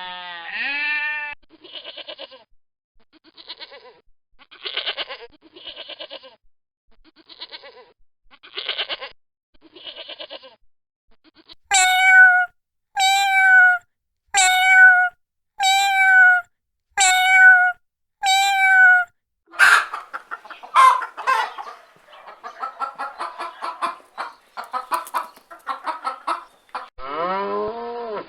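A run of farm animal calls, one kind after another: a bleat at the start, a series of short calls about a second apart, then six clear, evenly spaced calls, a dense jumble of calls, and a low call beginning near the end.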